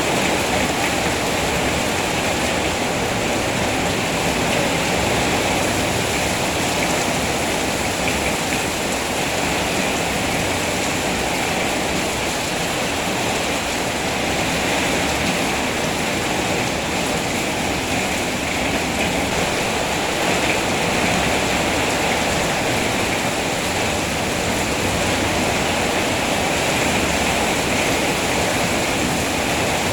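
Steady heavy rain, a dense, even rushing hiss that does not change.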